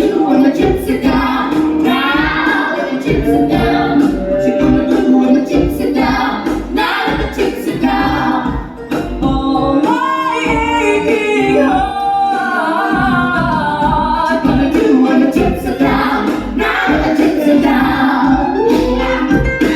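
Musical theatre number: several voices, female among them, singing in harmony over a band accompaniment.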